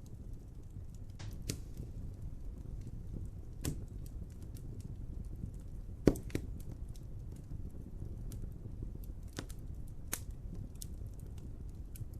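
Wood fire crackling: a steady low rumble of the flames with scattered sharp pops and snaps, the loudest pop about six seconds in.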